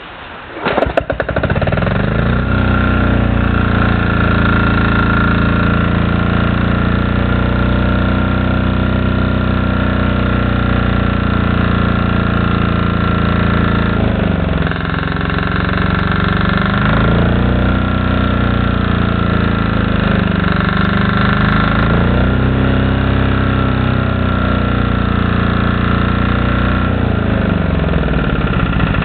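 Yanmar L40 single-cylinder air-cooled diesel engine starting about a second in, then running steadily. Its speed rises and falls a few times midway and drops off near the end.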